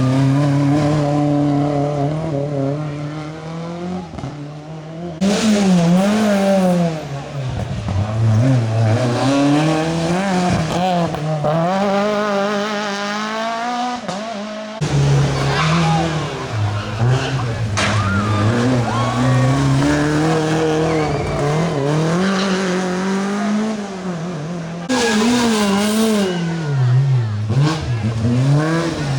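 Rally cars' engines revving hard and dropping back through gear changes and braking, over and over. The sound changes abruptly three times as one car gives way to another.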